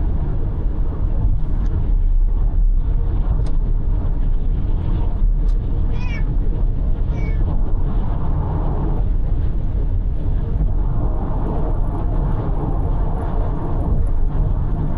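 A cat meowing in a moving car: one longer meow about six seconds in and a short one about a second later, over the steady rumble of road and engine noise.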